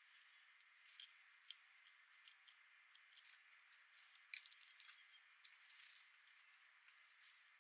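Small birds at a seed feeder: faint, quick high chips and ticks scattered irregularly over a steady hiss.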